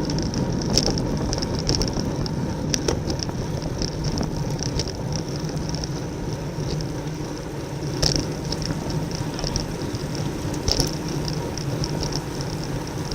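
Road racing bicycle at race speed: a steady rush of wind over the onboard camera microphone, with tyre and drivetrain noise and scattered sharp clicks.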